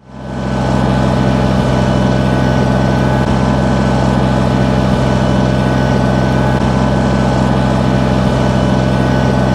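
A heavy engine running steadily at constant speed. It fades in during the first second, then holds level with no revving.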